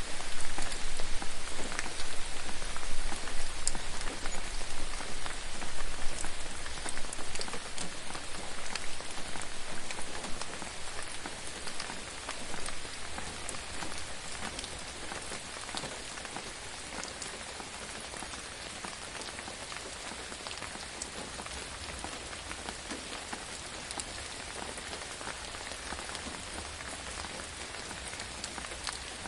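Steady rain falling, with many individual drops ticking sharply through the hiss. It is louder for the first ten seconds or so, then eases to a lighter, even fall.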